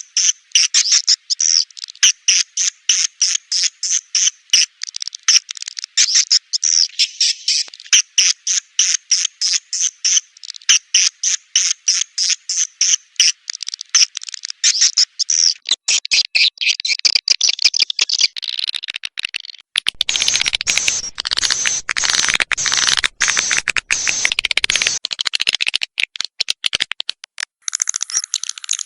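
Edible-nest swiftlet calls played as a swiftlet-house lure: fast rattling chirps, about four or five a second, that turn into a denser twittering chatter a little past halfway and are loudest shortly after that.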